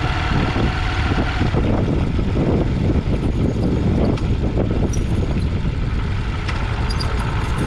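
Motorcycle engine running on the move, with heavy wind rumble buffeting the microphone.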